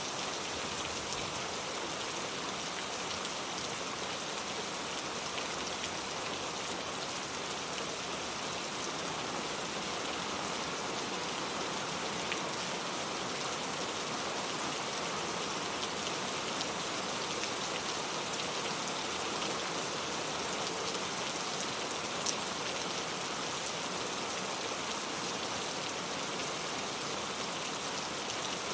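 Steady rain falling on a surface, an even hiss made of many fine drop ticks, with one slightly sharper drop tick about three quarters of the way through.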